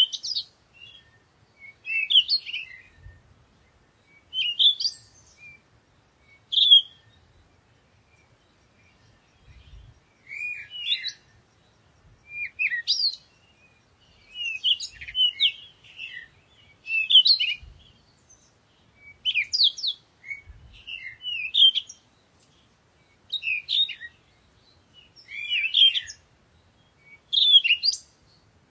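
A songbird singing short, chirpy phrases, one about every two seconds.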